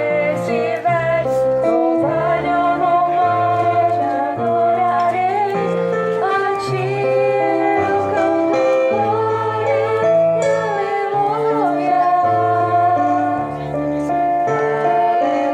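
Music: a woman singing a slow devotional song over instrumental accompaniment, with long held notes and a bass line that steps to a new note every second or so.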